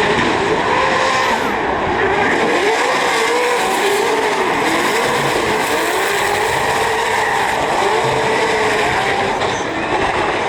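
Drift car engine revving, its pitch rising and falling over and over with the throttle, over the steady noise of sliding, screeching tyres.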